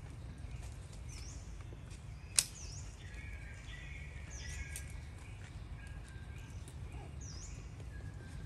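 A bird chirping over and over, a short high note about every second and a half, with thinner whistled notes in the middle stretch. A single sharp click about two and a half seconds in, over a steady low rumble of wind or handling.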